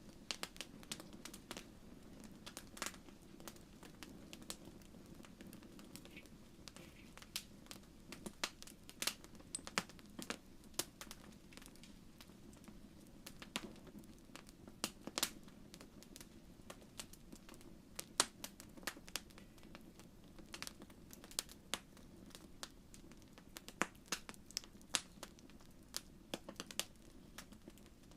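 Wood fire crackling in a fireplace: irregular sharp pops and snaps over a soft steady burning hiss.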